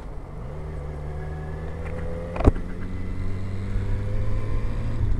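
Motorcycle engine running under way, its note rising just after the start and then holding steady. A single sharp click about two and a half seconds in.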